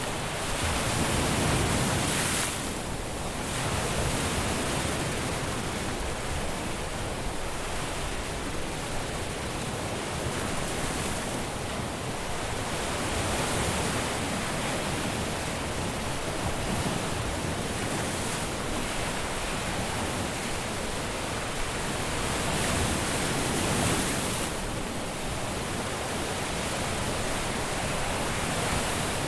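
Caribbean surf on a beach: a steady wash of breaking waves, swelling louder about a second in and again a few seconds before the end.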